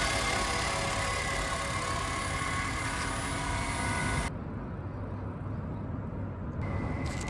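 Nissan Kicks e-POWER's 1.2-litre three-cylinder HR12DE petrol engine, which only drives the generator, running steadily with a low hum and a steady whine. About four seconds in the sound cuts off abruptly, leaving a quieter steady hum.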